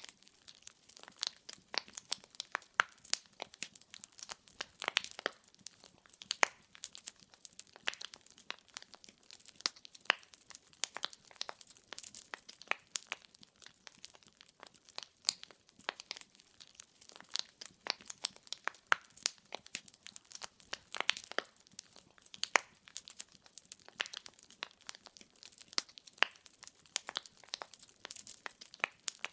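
Firewood logs burning in a fireplace, crackling with many sharp irregular pops and snaps over a faint hiss.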